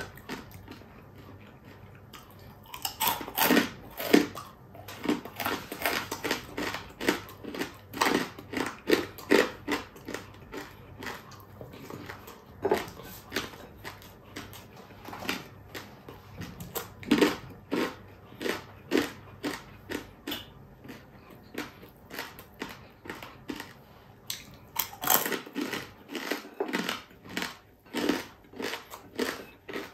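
Close-miked chewing and crunching of crispy deep-fried boneless chicken-feet chicharon: repeated sharp crunches, about two a second, in runs broken by short pauses.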